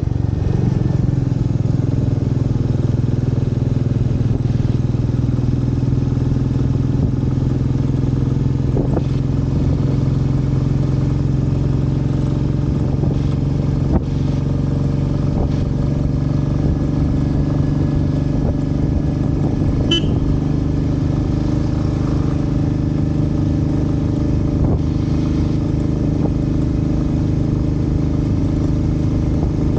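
Motorcycle engine running at a steady cruising pace, its note holding level throughout, with a few brief clicks along the way.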